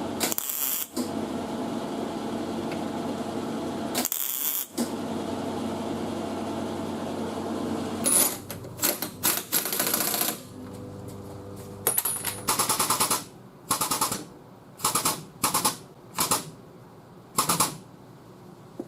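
Rapid mechanical rattling in a string of short bursts, each about half a second long, from the body-shop pulling equipment working on the car's damaged quarter panel. A steady running noise fills the first half.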